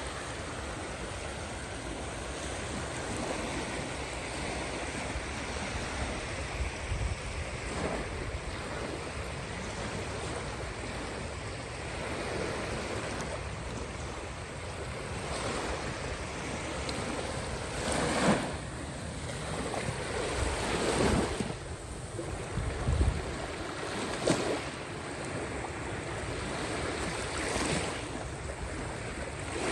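Caspian Sea waves washing in steadily, with a louder breaking splash every few seconds, most marked in the second half.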